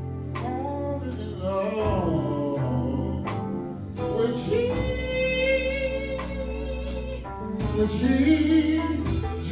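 Gospel worship music: a voice singing long held notes over steady bass and instrumental accompaniment, with occasional drum hits.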